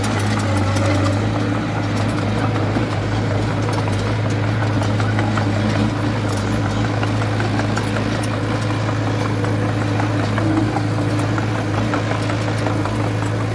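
Diesel engine of a small Komatsu D20A bulldozer running steadily with an even low hum.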